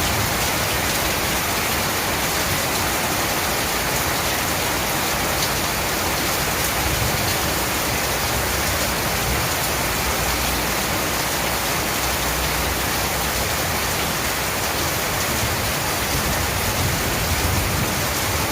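Heavy rain pouring down steadily, a dense even hiss of countless drops with scattered individual drop ticks.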